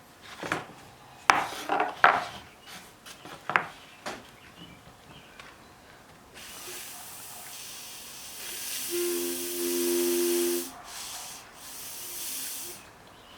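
A few handling clicks, then breath blown and sucked through a hose into the inlet of a Perkins mechanical fuel lift pump: a long airy hiss in two stretches, the first briefly joined by a low buzzing tone. Air passes through on suction as well, so the pump's inlet valve is not sealing.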